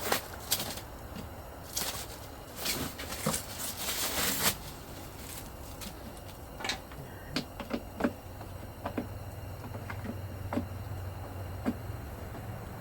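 Hands working plastic automotive parts: rustling and crinkling in the first half, then a series of small sharp plastic clicks and taps, as a truck headlight assembly and its wiring plugs are handled and fitted.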